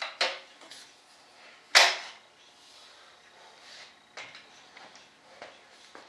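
Sharp clacks and knocks of a new saw's latches and parts being worked by hand to unlock and open it, with the loudest knock about two seconds in.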